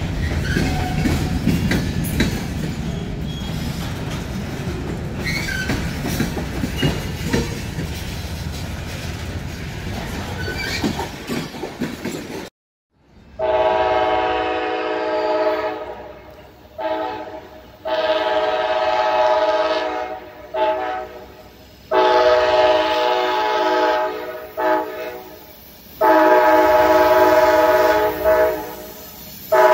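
A train rolling past with a steady rumble and wheel clatter. After a sudden cut about twelve seconds in, a locomotive air horn sounds a repeated series of loud long blasts, with short blasts between them.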